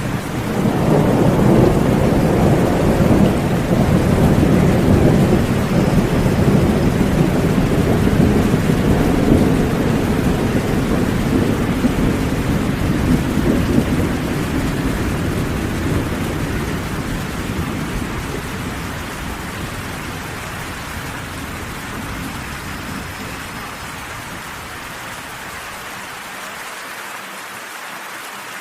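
Steady rain falling, with a long, deep roll of thunder that swells in at the start and slowly dies away over the next twenty-odd seconds.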